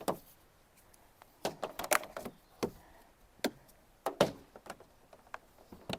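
Scattered light knocks and taps, some in quick little clusters, from the PVC drip-rail gutter strip being handled and pressed against the van's body.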